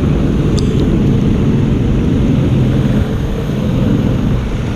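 Go-kart engines running, a steady low drone that wavers in pitch.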